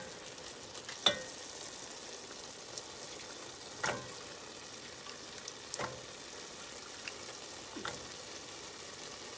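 Chicken sizzling in a pot over medium heat, a steady light hiss. Four sharp knocks, about two seconds apart, as potatoes go into the pot.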